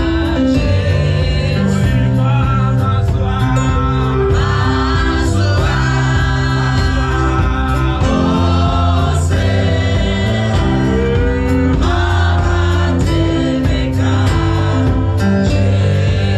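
Gospel music with choir singing over a steady beat.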